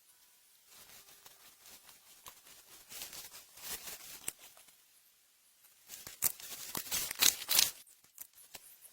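Rustling and crackling handling sounds made of many short clicks: a light stretch in the first half, then a louder dense cluster of sharp crackles about six to eight seconds in.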